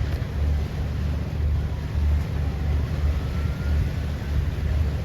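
Low, steady rumble of a boat underway, with wind buffeting the microphone.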